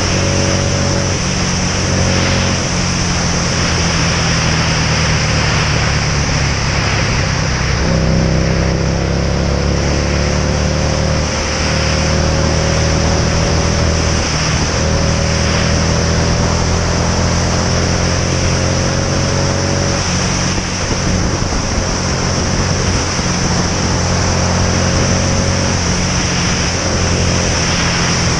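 Motorcycle engine running on the move under heavy wind rush over the camera's microphone. The engine pitch climbs slowly twice, about a third of the way in and again around halfway, as the bike accelerates.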